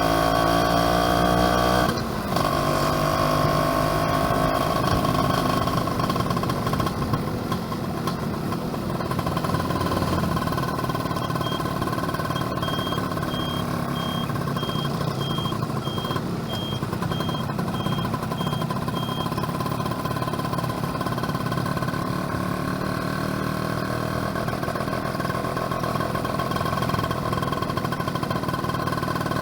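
Yamaha F1ZR's two-stroke engine running under way. About two seconds in, the engine note drops, then holds fairly steady over road and wind noise. In the middle, a faint high-pitched beeping repeats evenly for several seconds.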